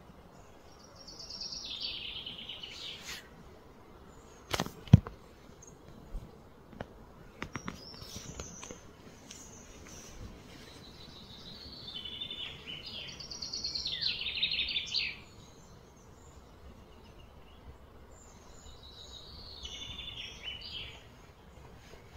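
A bird singing three short phrases of rapid, trilled high notes: one about a second in, a longer one around twelve to fifteen seconds, and one near the end. A single sharp knock just before five seconds is the loudest sound, followed by a few lighter clicks, over a faint outdoor background.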